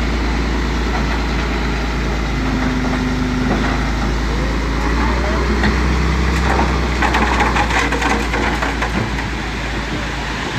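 Heavy diesel engine of earthmoving machinery running steadily, with a burst of metallic clattering about seven seconds in.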